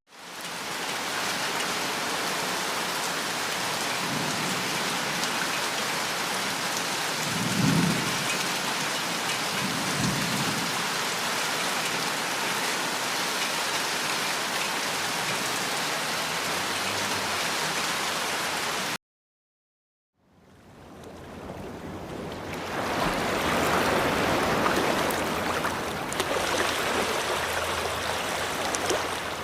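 Rain sound effect: steady heavy rainfall with two low rumbles of thunder about 8 and 10 seconds in. It cuts off and, after a second of silence, a different rushing noise fades in and swells, the start of the next nature effect.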